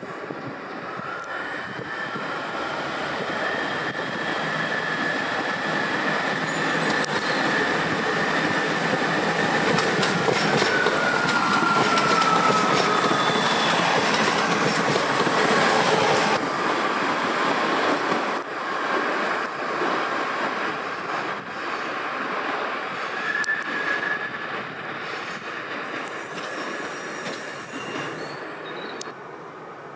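A diesel passenger train running slowly over the station tracks, with a high metallic squeal from the wheels on the rails. The train noise builds for about twelve seconds, a squeal slides down in pitch shortly before the loudest point, and the sound drops off sharply about halfway through, then fades.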